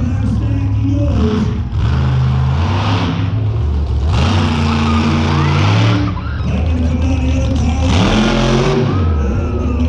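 Monster truck engine running loudly and being revved, swelling louder about four to six seconds in and again about eight seconds in.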